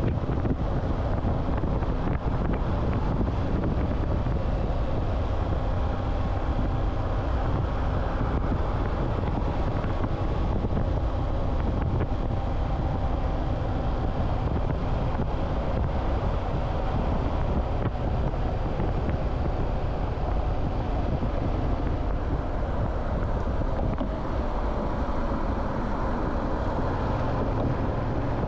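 Motorcycle under way: the engine runs steadily while wind buffets the microphone, and the engine note rises and falls a little.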